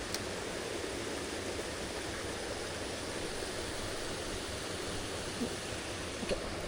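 Mountain stream water rushing steadily, an even, unbroken noise of flowing water over rocks.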